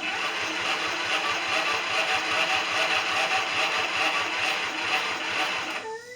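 Craftsman LTX 1000 lawn tractor's 20-horsepower engine turning over on its electric starter, worked by jumping the solenoid, for about six seconds without catching, then stopping suddenly. The engine fails to fire because its ignition is giving no spark.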